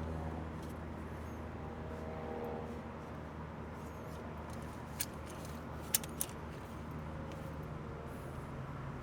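A steady low mechanical hum, with three short sharp clicks about halfway through.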